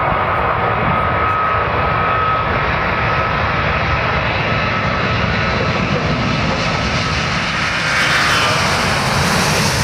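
An Airbus A380's four Rolls-Royce Trent 970 jet engines running loud and steady at takeoff thrust. Near the end, an engine whine drops in pitch as the aircraft passes.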